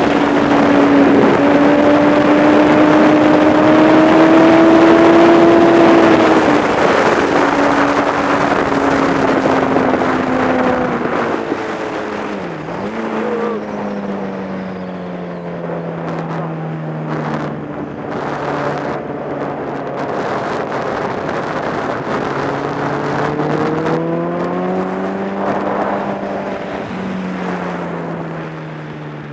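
Onboard sound of a Kawasaki ZX-10R sport bike's inline-four engine with wind rushing past. The engine holds high revs for the first several seconds, then the revs and the wind noise fall away as the bike slows, with a brief dip about twelve seconds in. The engine revs up once more near the end and then eases off.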